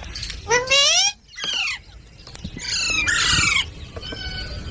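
Green parrots squawking. There is a rising call about half a second in, a short call just after it, and a longer, harsher squawk about three seconds in.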